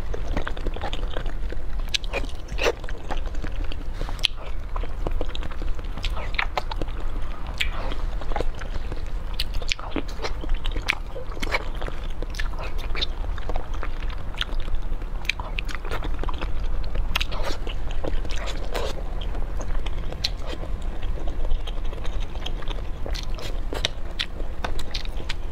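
Close-miked eating sounds: a person biting and chewing food, with a continual irregular run of sharp, crunchy clicks from mouth and teeth.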